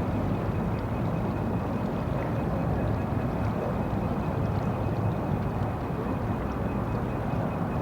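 City ambience: a steady low rumble of distant traffic, with a faint steady high-pitched tone above it.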